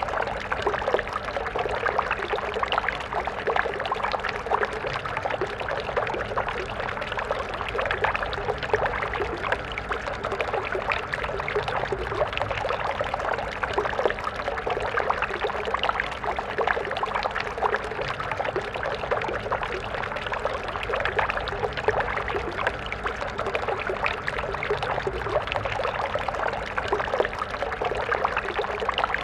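Stream flowing steadily, a continuous babble of water over stones with constant splashing and gurgling.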